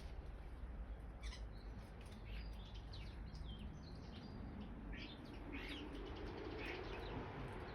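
Small garden birds chirping, many short scattered calls overlapping at a bird table.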